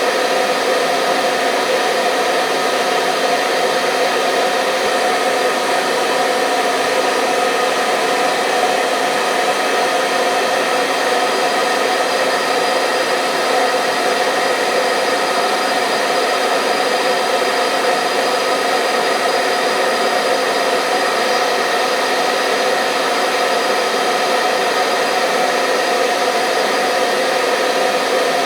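Hair dryer running steadily, a constant whoosh of blown air with a faint motor whine, used as white noise to lull a baby to sleep.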